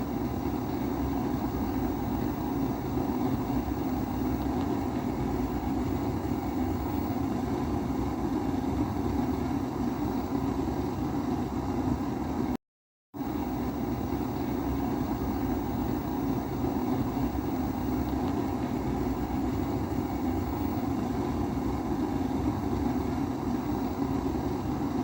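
Kerosene pressure stove (primus-type babour) burner running with a steady roar. It cuts out for about half a second about halfway through, then carries on unchanged.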